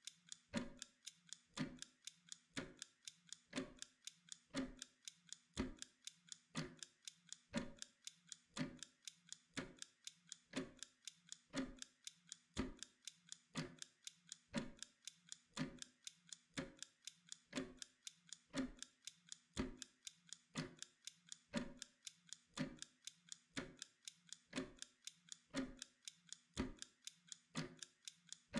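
Mechanical kitchen timer ticking steadily, about two ticks a second.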